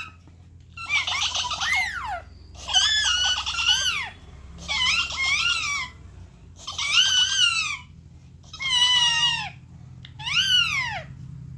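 Pet talking parrot imitating laughter: six high-pitched calls of about a second each, their pitch rising and falling, the first ones broken into quick pulses like a run of 'ha-ha-ha'.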